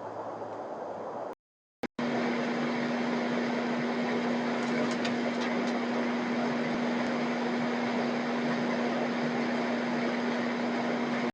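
A machine's steady hum over a wash of noise, broken by a short cut to silence about a second and a half in.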